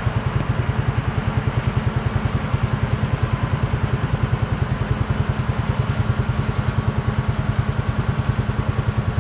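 Engine running steadily close by, with an even low pulsing of about ten beats a second; it starts abruptly with a cut.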